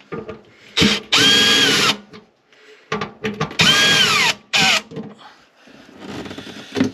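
Power drill run in two short bursts of about a second each, its motor whine holding steady and then falling away as the trigger is released, with a brief third blip and small handling knocks in between.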